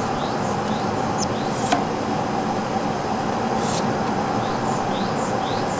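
Steady outdoor background noise with short rising bird chirps in runs, about two a second. Two sharp clicks come about one and a half and three and a half seconds in.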